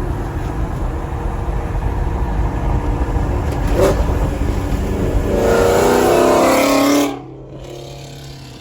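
Car engine running with a steady low rumble, then a louder stretch of revving about five seconds in that cuts off suddenly about two seconds later, leaving a quieter steady hum.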